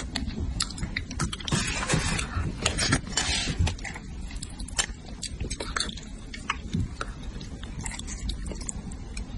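A person eating red-braised Wuchang bream close to the microphone: wet chewing and mouth smacks, many short and sharp, with a few longer noisy bursts in the first four seconds.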